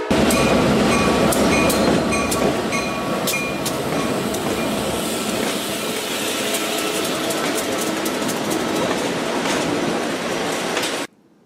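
Diesel trains passing close by: a loud, steady rumble with sharp clicks of wheels over the rail joints, and a crossing bell ringing for about the first five seconds. It cuts off abruptly near the end.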